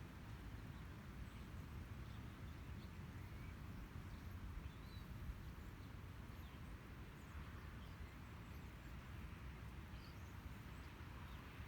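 Quiet outdoor ambience: a steady low rumble under an even hiss, with a few faint, short, high bird chirps scattered through.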